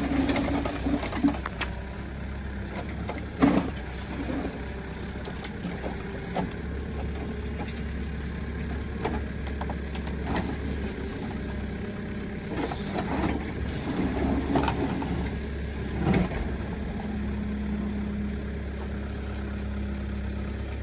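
Diesel engine of heavy earthmoving machinery running steadily, with several sharp knocks and clanks over it, the loudest about three and a half seconds in and again about sixteen seconds in.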